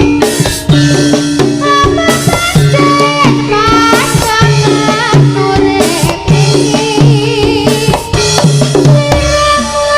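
Javanese jaranan music: busy drumming and percussion over a repeating low pattern, with a melody line that bends up and down in pitch, starting suddenly out of silence.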